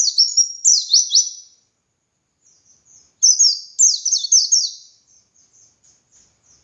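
Pleci (white-eye) singing: fast runs of high, downward-slurred notes in two loud bursts, with soft twittering between them and after.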